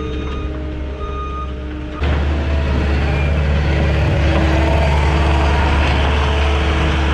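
Cat 259D compact track loader's diesel engine running, with its backup alarm beeping. About two seconds in the engine gets suddenly louder and stays up, as under throttle while working dirt.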